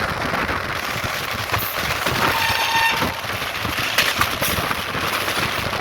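Train running at a railway station, a steady rumble and clatter with a few sharp knocks. A brief high tone sounds for under a second midway through.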